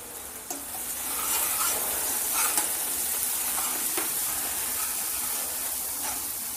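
Spice masala frying and sizzling in a kadai while a steel ladle stirs and scrapes through it, the sizzle swelling about a second in. A few short sharp knocks stand out over it.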